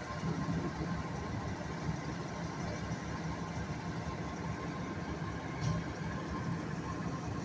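A vehicle engine idling steadily, with one short click about six seconds in.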